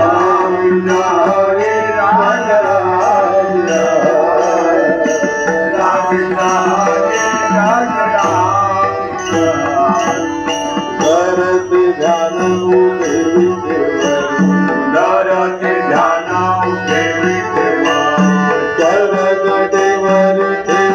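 Hindu devotional aarti music: a wavering melody carried over a steady hand-drum rhythm with regular sharp strokes.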